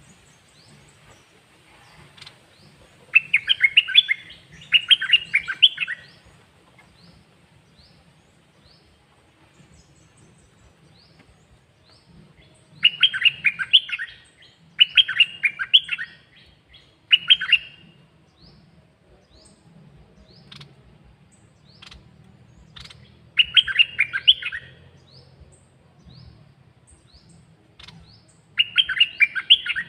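A caged songbird singing short phrases of rapid, warbling notes, seven in all, in clusters with pauses between, while softer, higher single chirps repeat in the gaps.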